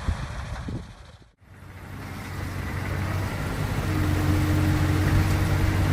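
Heavy-equipment diesel engine running steadily. The sound cuts out briefly about a second and a half in, then a steady engine hum fades back in. A higher steady tone joins it about four seconds in.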